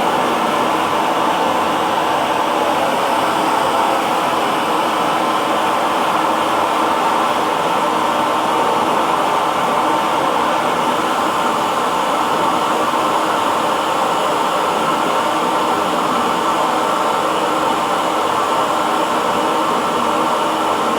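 Handheld hair dryer running steadily: an even whooshing rush of blown air with a faint motor hum, unchanging throughout.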